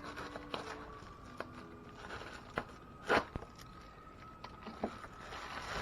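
A knife cutting open a shipping package: scattered faint scraping and crunching clicks, with one louder rasp about three seconds in.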